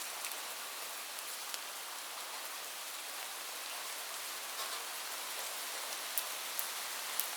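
Steady rain falling, an even hiss with scattered sharper drops ticking on a hard surface.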